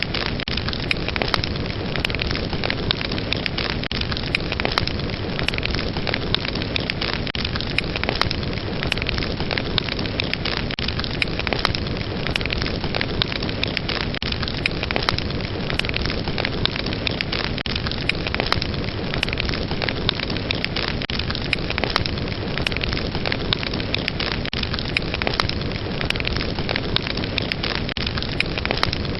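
Wood fire crackling: a steady rushing hiss of flames, dense with small sharp pops and snaps.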